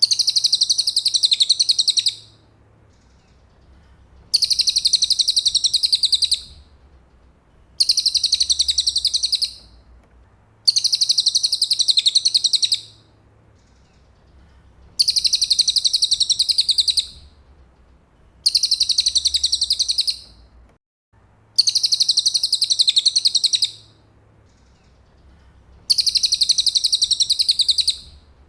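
Cililin bird song: a high, rapid trill about two seconds long, repeated over and over with pauses of a second or two between phrases.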